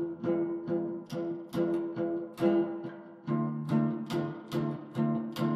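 Acoustic guitar strummed in a steady rhythm, the chord changing a little over three seconds in: the instrumental opening of a song, before the singing comes in.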